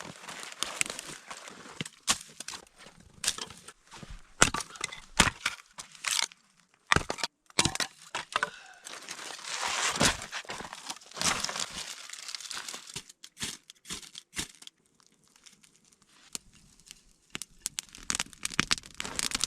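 Dry sticks and kindling being snapped and broken by hand: irregular sharp cracks with crunching and crackling in between.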